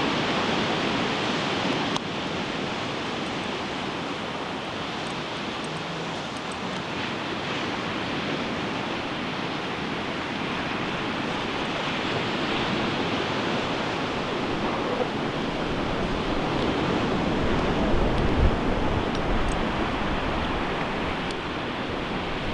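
Ocean surf breaking and washing up a beach: a steady wash of waves that grows louder in the second half, with a few low bumps about three-quarters of the way through.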